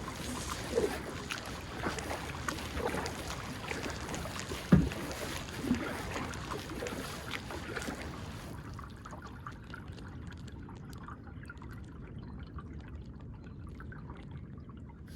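Kayak on a shallow river: water splashing and trickling with irregular knocks of the paddle or gear against the hull, and one louder thump about five seconds in. The splashing stops about two-thirds of the way through, leaving quieter water sounds.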